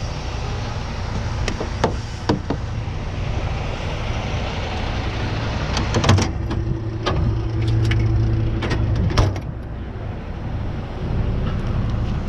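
Truck engine idling steadily, with a few sharp metallic clicks and clanks. Midway there is a cluster of clanks, then a steady hum for about two seconds that stops with another clank.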